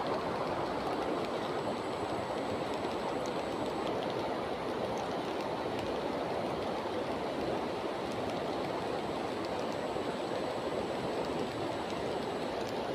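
Steady rushing noise of flowing water, even and unbroken, with a faint thin high whine in two stretches.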